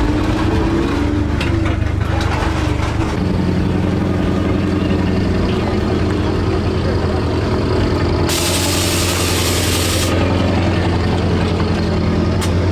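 Vehicle engine idling steadily. A sharp hiss lasting about two seconds starts about eight seconds in, and a few clicks come near the end.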